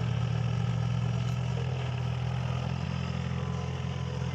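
Mini excavator's diesel engine running at a steady pitch.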